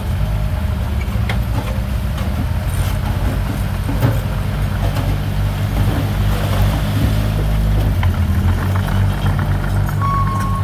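Heavy diesel earthmoving equipment running steadily with a deep engine rumble and occasional short metallic clanks. A brief high-pitched tone sounds near the end.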